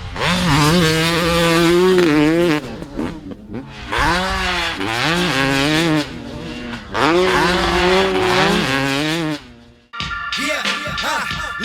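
Motocross bike engines revving hard in three long runs with short gaps between them, the pitch climbing and dipping as the throttle is worked. After a drop-out about ten seconds in, a different sound with steady high tones follows.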